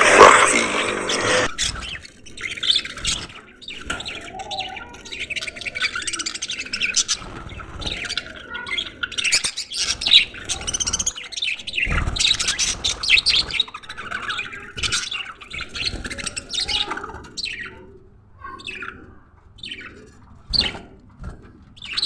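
Budgerigars in a colony aviary chirping and chattering, with many short calls overlapping and thinning out towards the end. Music stops about a second and a half in.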